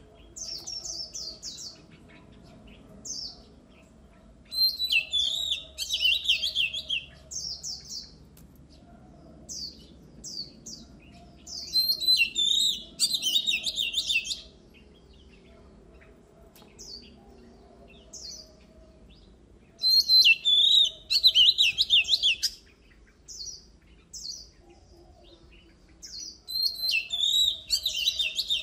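Oriental magpie-robin singing: loud phrases of quick, varied whistled and scratchy notes come roughly every seven to eight seconds, with short single notes between them.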